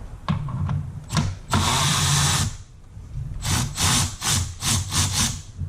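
Handheld power tool such as a cordless drill-driver, run for about a second, then triggered in about six short bursts, loosening fasteners to take off an engine-bay part.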